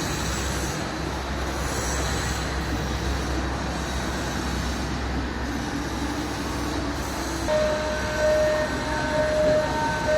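Steady industrial machinery noise with a low hum. From about seven and a half seconds in, a pitched tone starts sounding on and off repeatedly over it.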